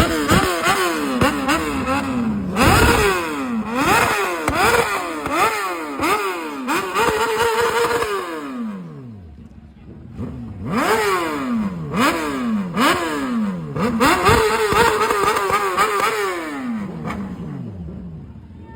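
Motorcycle engine revved in quick repeated throttle blips, its pitch swooping up and down. Twice it is held at a high steady rev, then it winds down with a long falling pitch.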